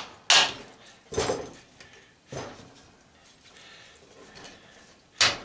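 Metal knocks and clatters from scrap electric-motor parts being struck and handled: three knocks about a second apart, a quieter stretch, then one more knock near the end.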